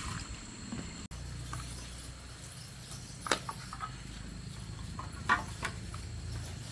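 A few sharp knocks or clicks, the loudest about three seconds in and two more close together a little after five seconds, over a low steady hum.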